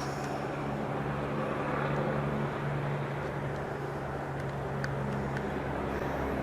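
Engine of heavy machinery running steadily at an even speed, with a low, constant hum.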